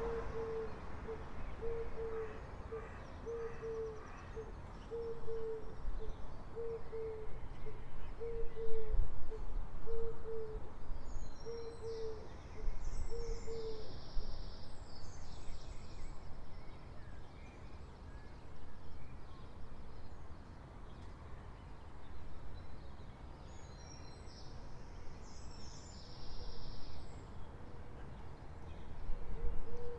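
A bird repeats a short, low hooting call about once a second, then stops about halfway through and starts again near the end. Brief higher chirps from other small birds come in the middle and later, over a steady low background rumble.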